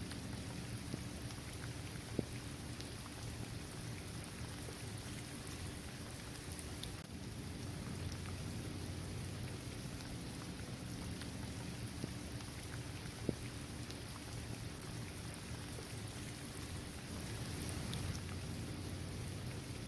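Steady rain falling on a basketball court, trees and grass: an even wash of rain with a couple of sharper single drop ticks, about two seconds in and again near the middle.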